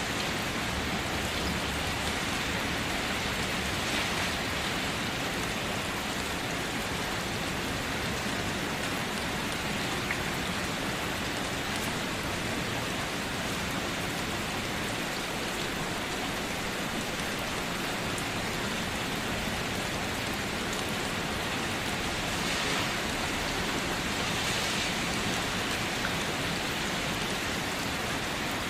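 Steady rain falling, an even hiss that swells briefly a few times.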